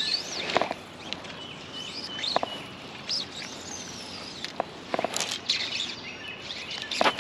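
Songbirds chirping and whistling, a series of short notes sliding up and down in pitch, with a few sharp clicks and light handling noises in between.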